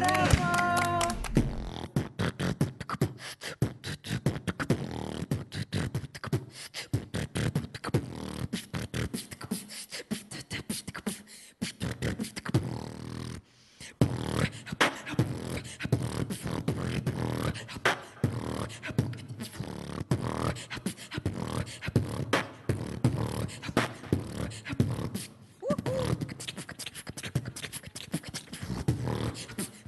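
A person beatboxing: a fast run of mouth-made drum sounds and clicks, with a short break about halfway through.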